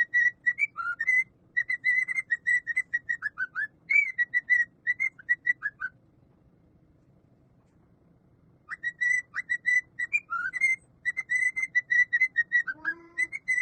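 Quick runs of short, high whistled notes, several a second, some sliding up or down in pitch, with a pause of about three seconds in the middle before the whistling starts again.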